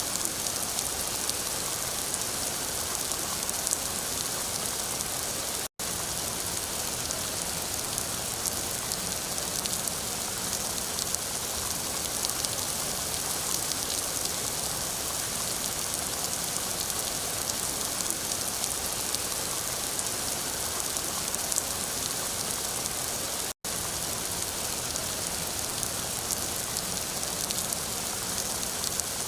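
Steady rain falling, a dense patter of drops over an even hiss. The sound cuts out for an instant twice, about six seconds in and again later on.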